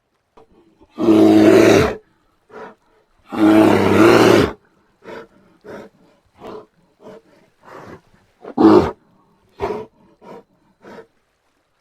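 Brown bear roaring: two long, loud roars of about a second each, then a series of short grunting calls, one louder call standing out near the end.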